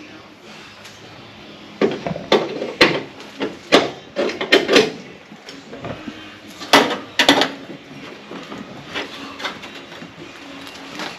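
An irregular run of about ten sharp metallic knocks and clanks over a few seconds, then lighter clicks of handling: tools and replacement sheet-metal body panels being fitted to a truck cab.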